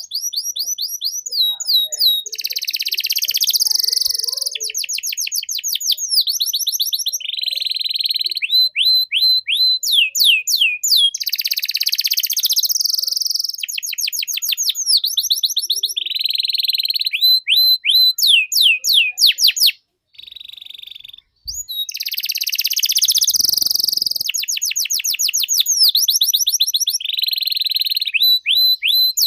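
Domestic canary singing a long song of rapidly repeated phrases: fast trills of falling whistles alternating with buzzy rolls, with a brief pause about two-thirds through.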